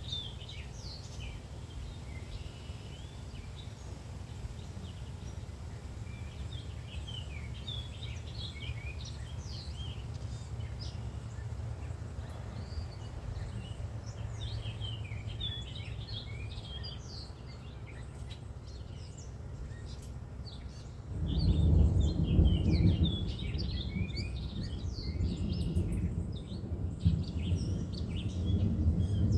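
Many birds chirping and singing over a steady low background rumble. About two-thirds of the way through, a much louder, deep rumble sets in suddenly and keeps going with swells, as the storm blows in.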